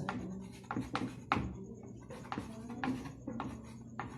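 Irregular tapping and scratching, about two or three sharp clicks a second, over a steady low hum: desk-side handling sounds while a result is being worked out.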